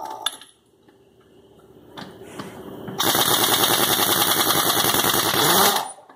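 1-inch pneumatic impact wrench hammering on a wheel nut in rapid, even blows. A first run dies away at the start, a few clicks follow, then a loud run of nearly three seconds starts about halfway through and cuts off suddenly.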